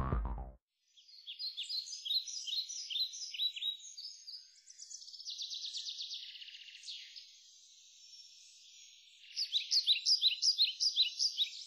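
Bird chirping in phrases of quick repeated notes, with a buzzier trill in the middle. Music fades out at the very start.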